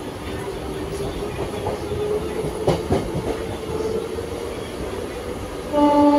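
Electric suburban local train running, heard from aboard as it pulls away from a station: steady rumble with a faint rising motor whine and a clatter of wheels over rail joints about three seconds in. Near the end a train horn sounds, one held tone, the loudest sound.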